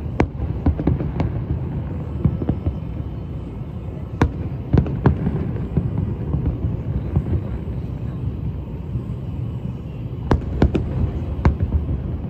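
Fireworks going off: irregular sharp bangs and cracks in small clusters, over a steady low city rumble.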